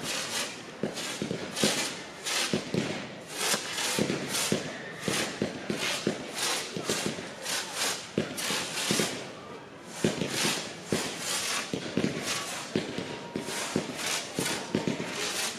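F2-category fireworks firing in quick, irregular succession: a steady run of launch thumps and sharp aerial bangs, several a second, shot after shot.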